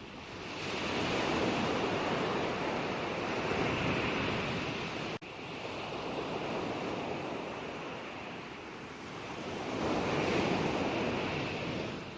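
Gentle ocean waves breaking and washing on a shore, the surf swelling twice. There is a momentary dropout in the sound about five seconds in.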